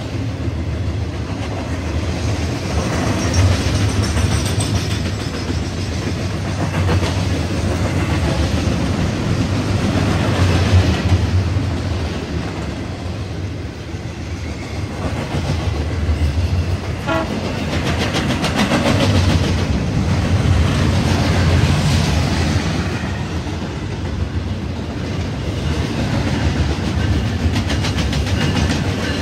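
BNSF double-stack intermodal freight train rolling past on the main line: a steady, heavy rumble of the cars' wheels on the rails. It swells and eases in slow waves as the cars go by.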